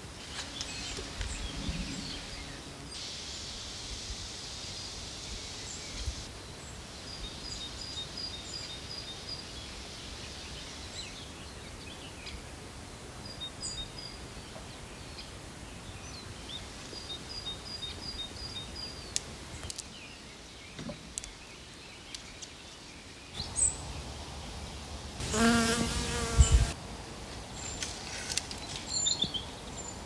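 Small birds giving short high calls in quick runs of several notes, over a quiet background. Near the end a fly buzzes close by for a second or two, its pitch wavering.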